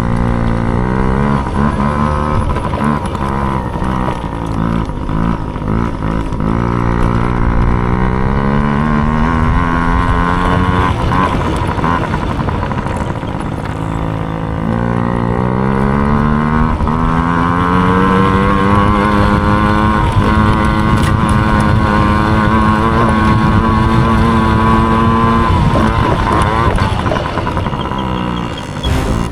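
Small dirt bike engine racing, revving up and down as it climbs through the revs, drops back and pulls again. It holds high revs for several seconds, then backs off briefly near the end.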